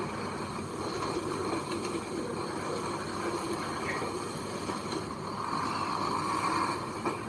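Heavy earthmoving machinery engine running steadily.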